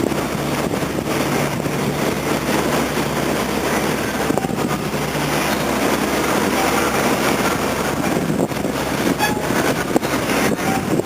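Steady rumble and rushing noise of a moving vehicle, with a constant low engine hum underneath.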